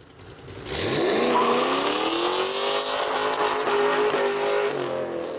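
2008 Ford Mustang Bullitt's 4.6-litre V8, fitted with BBK long-tube headers, a catted X-pipe and MBRP Pro Series mufflers, accelerating hard. Its exhaust note climbs in pitch over the first second, holds a steady high note, then fades near the end.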